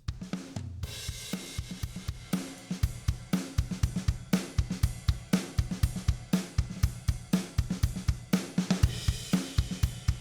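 A recorded drum kit loop plays through a compressor: kick, snare and a steady hi-hat and cymbal pattern. It comes in about a second in after a short pause, and the hits get louder partway through as the compressor's threshold is set.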